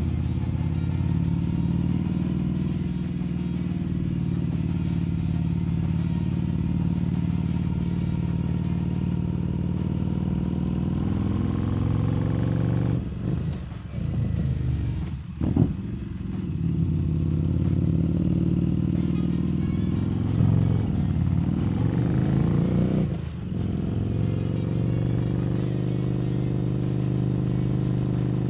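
Harley-Davidson Street Rod 750's liquid-cooled V-twin running steadily under way. Three times, about halfway through and again near the end, the throttle closes briefly for a gear change and the engine revs back up.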